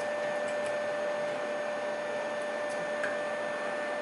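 3D printer running: a steady whir with a constant high-pitched tone and a few faint ticks.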